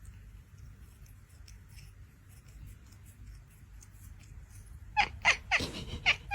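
A cat meowing in a quick series of short calls, each falling in pitch, starting about five seconds in after a stretch of faint background noise.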